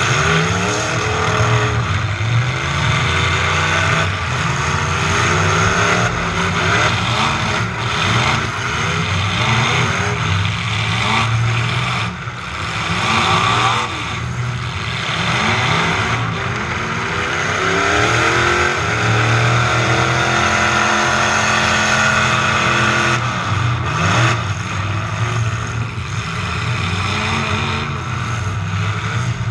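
Demolition derby trucks' engines revving hard, the pitch repeatedly rising and falling, with occasional knocks cutting through.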